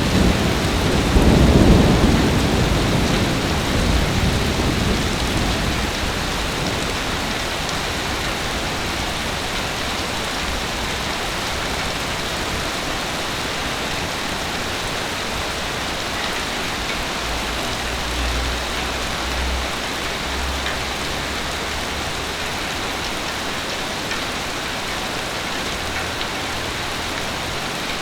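Heavy rain falling steadily as an even hiss, with a low rumble of thunder in the first few seconds and a fainter rumble about two-thirds of the way through.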